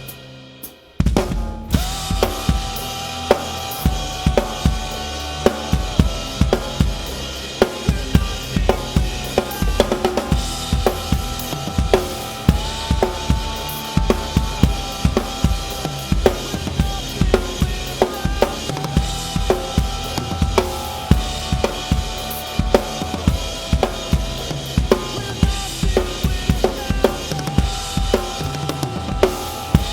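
Drum kit played along with a song: kick drum and snare keep a steady beat over the song's backing track. They come back in together after a brief break about a second in.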